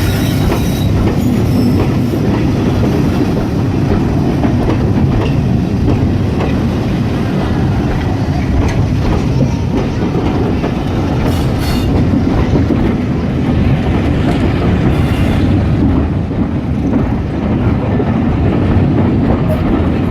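Train running past close by: a loud, steady rumble of wheels on the rails with scattered clicks, tagged by PANN as train and clickety-clack.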